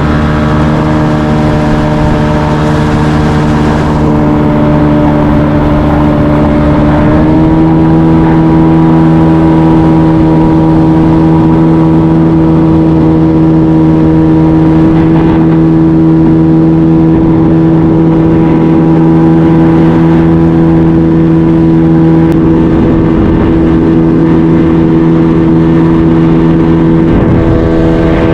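Jet-drive outboard motor on a jon boat running under way at speed. It steps up to a higher, steady engine pitch about seven seconds in and holds there.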